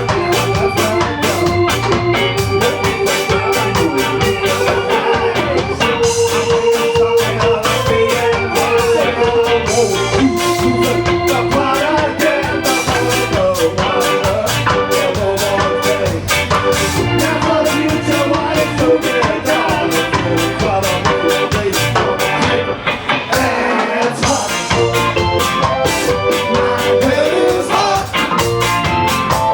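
A ska band playing live, loud and steady, with regular drum hits under the melody.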